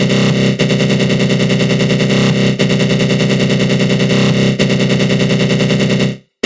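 Synthesized attack-growl sound effect: a harsh, buzzing synth tone with a rapid rattling pulse and flanger colouring, restarting about every two seconds as the loop repeats. It cuts out briefly near the end.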